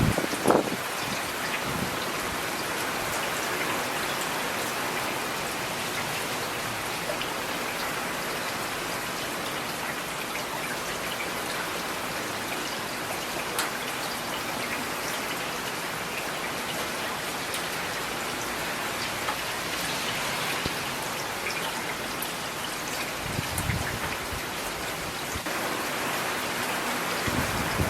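Steady rain falling on a hard surface, an even hiss of many drops. A few louder, closer drops or drips stand out, one about half a second in and a couple more late on.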